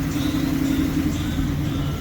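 A car engine running slowly, a steady low drone.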